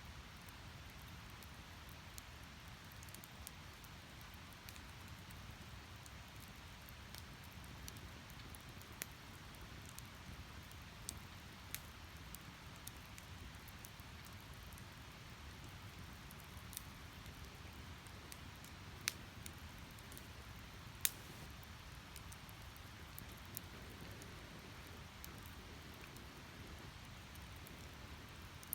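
Wood fire of split logs burning, a steady low rush of flame with scattered sharp crackles and pops, two louder pops about 19 and 21 seconds in.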